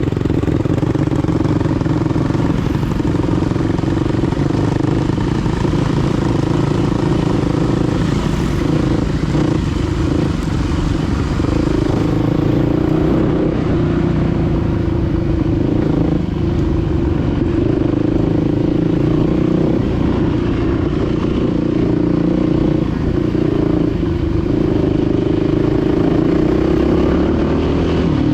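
Dirt bike engine running continuously as the bike is ridden, its pitch rising and falling with the throttle.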